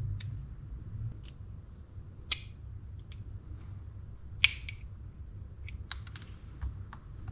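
Light clicks and taps of small metal reel parts and a tool being handled while working at a stuck bearing, with two sharper clicks a couple of seconds apart, over a low steady hum.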